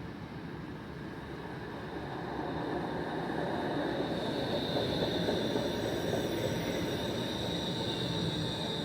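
TTC light rail train running on its track, its noise growing louder about two seconds in, with a high steady whine joining about four seconds in.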